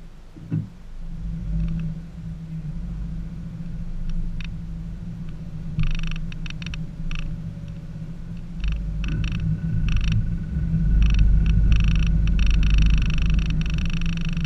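2014 Subaru Forester 2.5i's 2.5-litre flat-four engine running under load as the car climbs a steep dirt trail, with a deep rumble that grows louder about two thirds of the way in. Intermittent raspy, higher-pitched noises come and go over the engine from about six seconds in.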